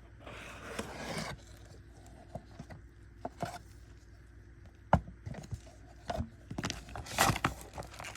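Packaging of a nail-art subscription box being opened and handled: a rustle of paper or plastic near the start, scattered light clicks and taps, one sharp click about five seconds in, and a burst of rustling and clicks near the end.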